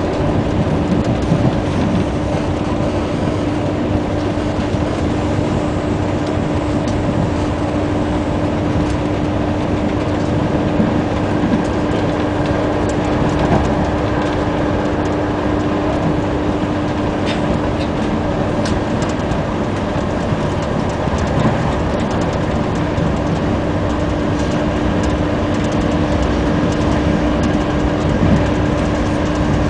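CP passenger train running at speed, heard from inside the carriage: a steady rumble of wheels and running gear with a constant low hum underneath.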